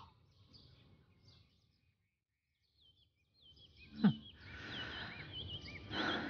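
Small birds chirping, many short twittering calls, starting a few seconds in. A brief falling voice sound, like a low murmur, stands out about four seconds in.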